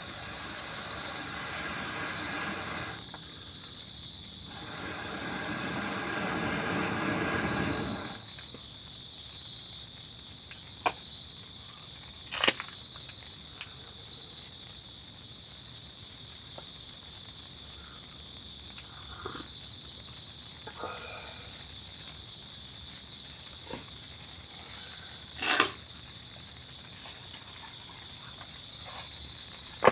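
Insects chirping in steady, pulsing trains, cricket-like. A rushing noise fills the first eight seconds, and a few sharp clicks and knocks come later.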